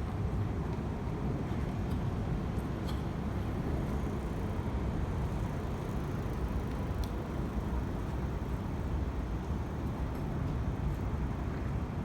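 Steady road traffic noise, a continuous low rumble of passing cars with no single vehicle standing out.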